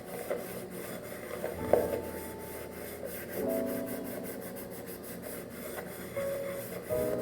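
Repeated rubbing strokes over soft background music.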